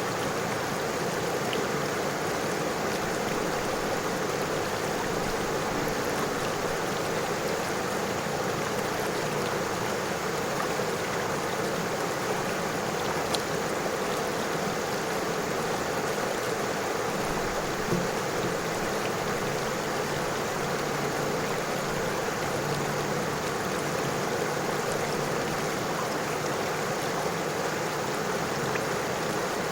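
River water flowing and rippling over stones, a steady rushing murmur with occasional small splashes.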